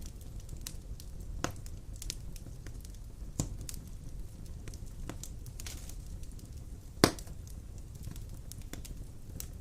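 Wood fire burning in a stone fireplace: a steady low rumble of the flames with scattered crackles and sharp pops from the burning logs, the loudest pop about seven seconds in.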